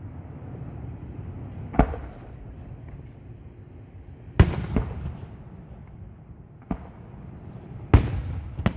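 Aerial fireworks display: about six sharp booms of shells bursting over a continuous low rumble, the loudest two about four and eight seconds in.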